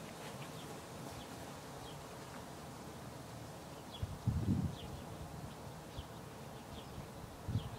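Backyard ambience: a small bird chirping with short, high, repeated chirps over a steady soft background noise, broken by two brief low rumbles about four seconds in and near the end.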